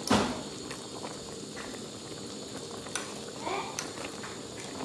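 Food cooking in a pot on the stove, a steady bubbling and sizzling, with a sharp clatter right at the start and a few light clicks.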